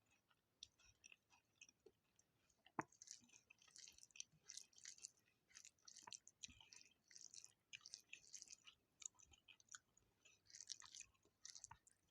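Quiet, close-miked chewing of a person eating, a dense run of small mouth clicks and crackles, with one sharper click about three seconds in.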